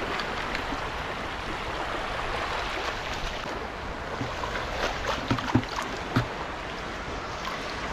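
Steady rush of sea water washing over the shore, with a few short soft knocks about five to six seconds in.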